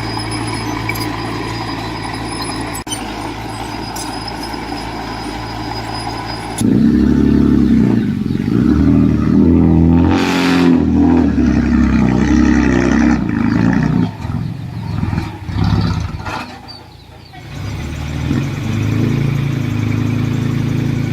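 Heavy diesel engine of a construction machine running steadily, then about six and a half seconds in revving up hard and labouring under load for several seconds, with a short hiss about ten seconds in. It then eases off, dips briefly, and settles back to a steady run.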